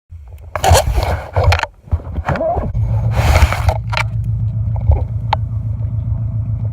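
An engine running steadily with a low, pulsing rumble, broken in the first four seconds by several loud rushes of noise and a few sharp clicks.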